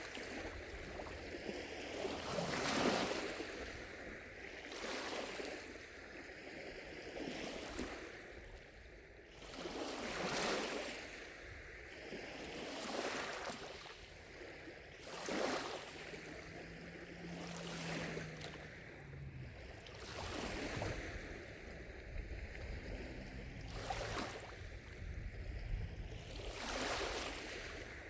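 Small lake waves lapping against the shore, a soft wash every two to three seconds, with distant cicadas faintly shrilling in the background.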